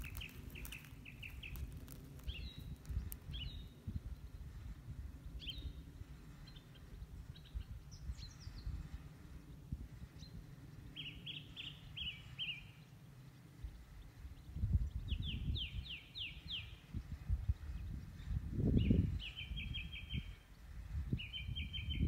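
Songbirds singing: short phrases of rapid repeated notes, each lasting a second or so, recurring every few seconds. Under them runs a low rumble that swells twice, about 15 and 19 seconds in.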